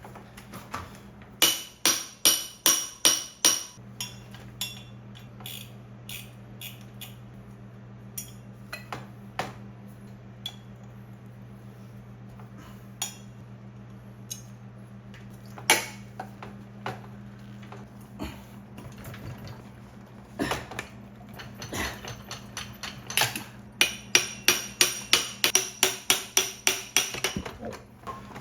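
Hammer blows ringing on metal: a quick run of about eight strikes a couple of seconds in, a few scattered knocks, then a faster run of about fifteen strikes near the end, over a steady low hum.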